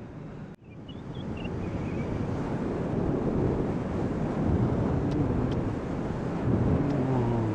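Motorcycle under way: steady wind rushing over the helmet microphone on top of the engine's hum, with the engine pitch rising near the end. The sound drops out briefly under a second in.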